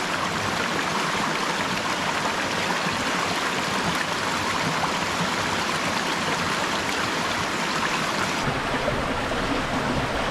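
Stream water rushing steadily. About eight seconds in the sound shifts, with less hiss and more low rumble.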